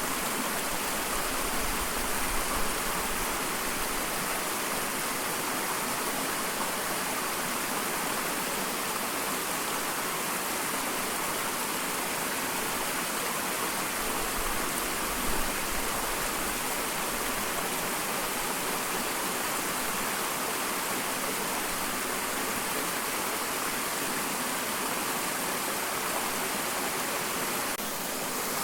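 Small waterfall, water falling and splashing in a steady rush, with a couple of brief louder splashes.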